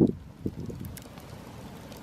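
Wood fire crackling, with a few sharp pops; a gust of wind on the microphone dies away right at the start.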